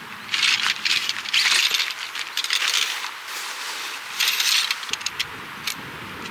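Camping gear being handled: irregular bursts of light metallic clinking and rattling with some rustling, in several clusters.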